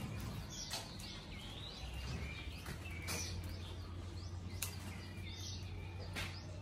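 Small birds chirping at intervals, over light clicks and rustling as mushrooms are handled and tipped from a basket. A low steady hum comes in about two seconds in.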